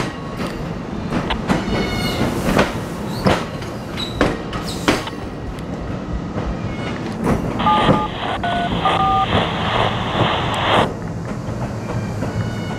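MARC bilevel commuter train passing close by, its wheels clacking over rail joints with brief high squeals in the first few seconds. Near the middle, a scanner radio hisses with a few short beeps for about three seconds.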